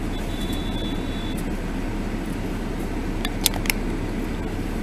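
Steady road and engine noise of a moving car, heard from inside the cabin. A short high beep sounds near the start, and a few sharp clicks come about three and a half seconds in.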